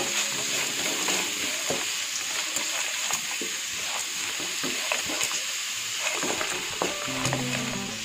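Grated beetroot and chana dal sizzling in hot oil in a frying pan while being stirred, a steady sizzle with light scrapes and clicks of the spoon against the pan; the beetroot is being sautéed until its raw smell goes.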